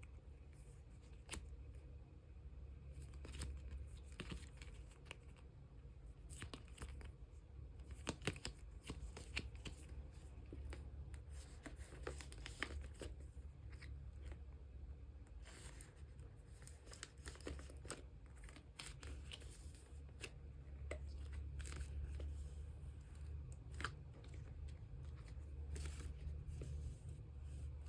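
Plastic photocard sleeves and cards being handled: irregular rustling, crinkling and small scrapes and clicks as cards are slid into sleeves, over a steady low hum.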